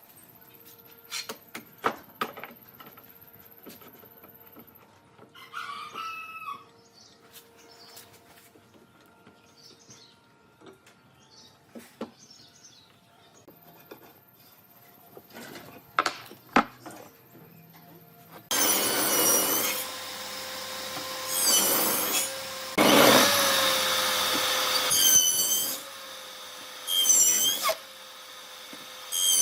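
Scattered knocks and clicks of wood being handled. From about two-thirds of the way through, a power tool works the wood in repeated bursts, each with a steady whine.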